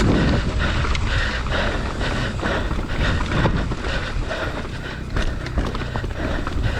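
Mountain bike riding down a trail: a steady low rumble of tyres on the ground, with scattered clicks and rattles from the bike.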